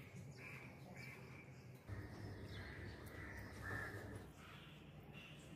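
Birds calling faintly, a series of short repeated calls, over a low rumble that sets in about two seconds in and fades after four seconds.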